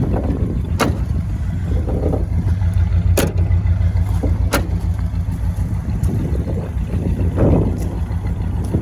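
1956 Ford Thunderbird's 312 Y-block V8 running with a steady low drone. A few sharp clicks come about one, three and four and a half seconds in.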